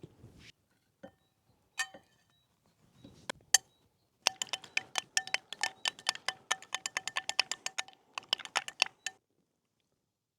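A utensil clinking quickly against a ringing bowl, as in whisking, at about eight strokes a second for roughly five seconds, after a few single clinks.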